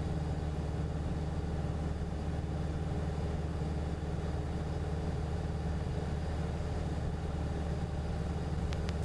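Cessna 177RG Cardinal's four-cylinder Lycoming engine and propeller droning steadily in flight, heard inside the cockpit.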